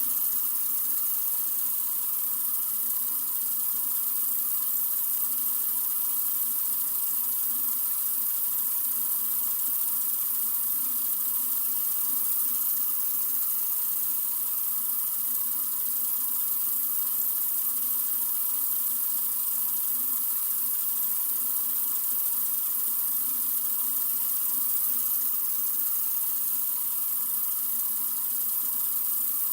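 Water running steadily from a sink faucet, an even, unbroken hiss.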